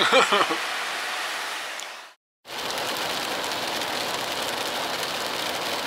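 Steady rain falling, an even patter with a short gap of silence about two seconds in.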